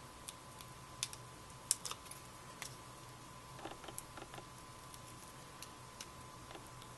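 Scattered light clicks and taps of paper and cardstock pieces being handled and pressed onto a card, with a few soft rustles, over a faint steady tone.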